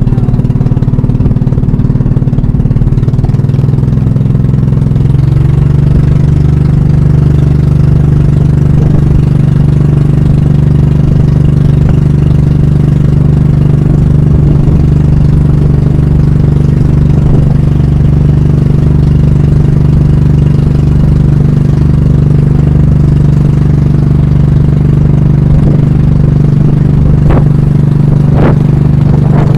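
Pump boat (banka) engine running steadily and loudly; about five seconds in its speed picks up slightly and then holds. A few sharp knocks sound near the end.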